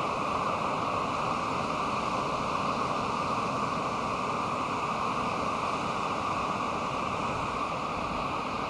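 Pacific Ocean surf breaking on a sandy beach, heard as a steady, even wash of noise with no single wave standing out.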